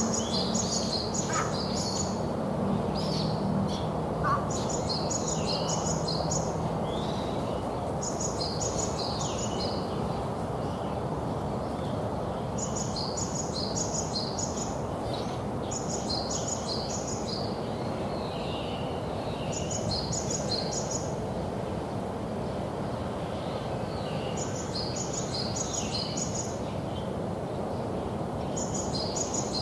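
A songbird singing the same short, high, rapid phrase over and over, about every three to four seconds, over a steady background hiss.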